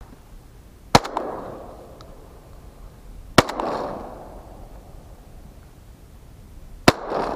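Three shotgun shots from a Beretta AL391 Urika semi-automatic, about one second, three and a half seconds and seven seconds in, each followed by about a second of rolling echo.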